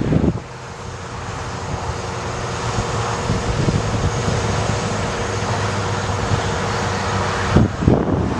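Ford F650 bucket truck's engine running with a steady drone, with gusts of wind buffeting the microphone at the start and again near the end.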